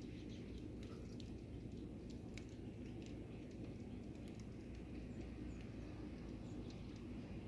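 Small birds at feeders: scattered faint chirps and tiny ticks over a steady low rumble.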